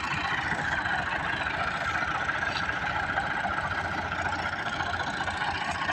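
Massey Ferguson 385 tractor's diesel engine running steadily.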